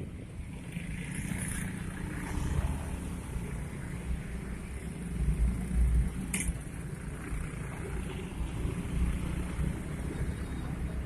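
Low, steady rumble of a vehicle on the move, with wind buffeting the microphone. A short sharp click about six seconds in.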